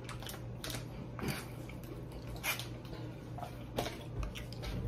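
Close-up eating sounds: chewing and mouth noises with a handful of short, sharp clicks spread through, over a faint steady low hum.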